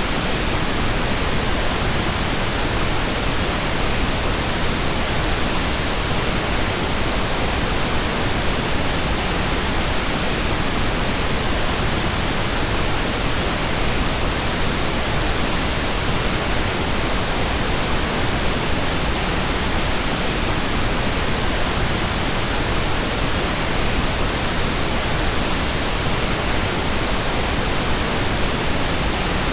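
Steady, unchanging pink noise: an even hiss across all pitches, fuller in the low end than white noise.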